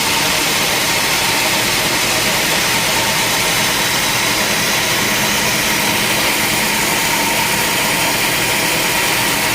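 Sawmill machinery running with a loud, steady, even noise and a faint hum beneath it.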